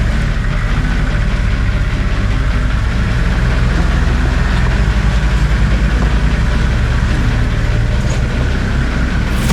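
Four-wheel-drive vehicle's engine running steadily at low revs, a deep even drone with no revving up or down.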